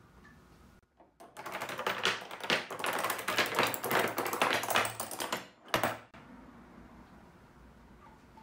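A long run of padlocks toppling like dominoes: a fast, dense rattle of metal locks tipping and clacking into one another for about four seconds, then one last separate clack.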